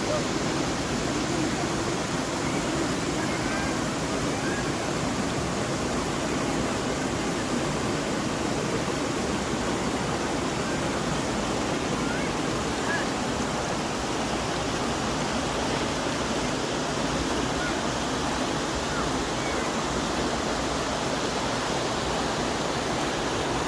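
A babbling brook: a steady, unbroken rush of running water over stones.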